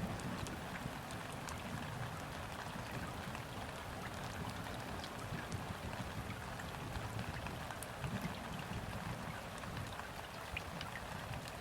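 Steady gentle rain falling on river water, with many fine separate drop ticks over an even hiss. A low rumble runs underneath, swelling near the start and again about eight seconds in.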